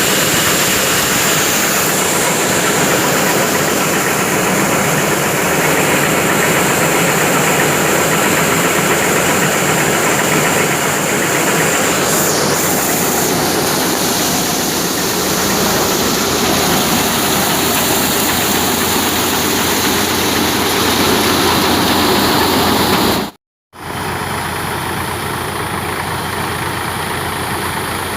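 A tractor engine driving a wheat thresher, running steadily with a dense mechanical rush. The sound cuts out for a moment near the end, then resumes slightly quieter.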